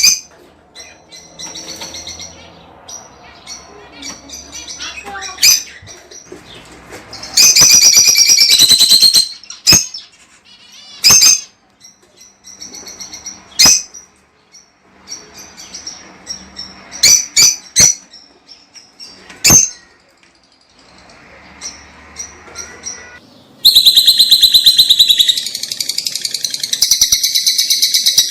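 Lovebirds calling: sharp, high single chirps scattered throughout, broken twice by loud bursts of rapid, shrill chattering, a short one about seven seconds in and a longer one near the end.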